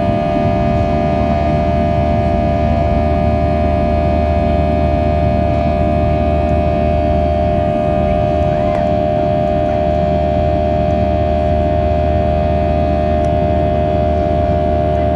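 Jet engines of a Southwest Airlines Boeing 737 running steadily during takeoff, an unbroken deep drone under a constant multi-toned whine.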